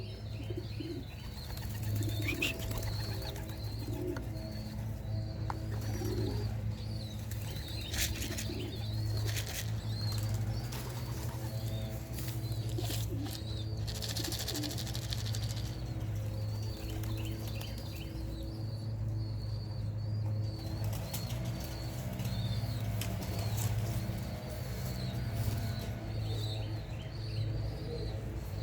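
Young racing pigeons' wings clapping and flapping in several short bursts as they take off and flutter around the loft. Pigeons coo and small birds chirp repeatedly over a steady low hum.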